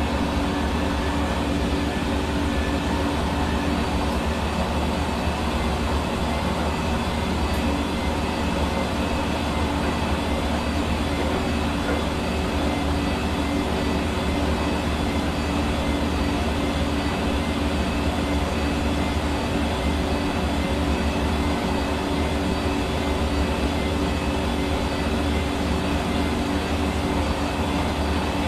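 Hair dryer running continuously at a steady speed: an even motor-and-fan whirr over a rush of air, with a low hum and a few steady tones.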